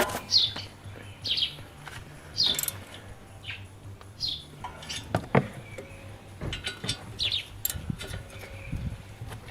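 A small bird chirping repeatedly, short falling chirps about once a second, with a few sharp knocks around the middle.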